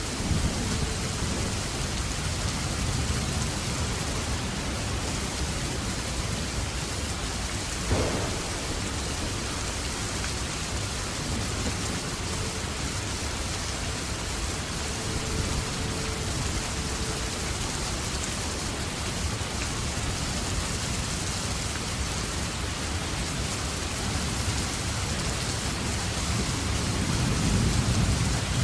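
Steady rain falling, with a low rumble of thunder swelling near the end and a single sharp tap about eight seconds in.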